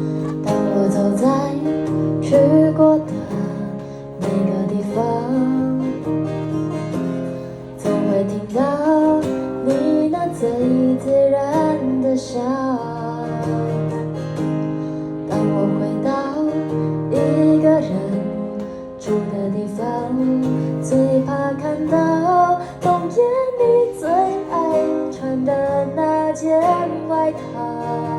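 Acoustic guitar strummed as accompaniment while a woman sings a slow ballad verse in Mandarin.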